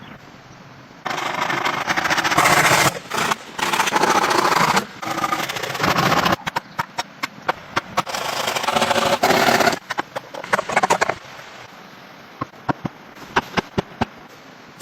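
Hand-tool work: a harsh rasping, scraping noise in several long stretches, then scattered sharp knocks in the last few seconds.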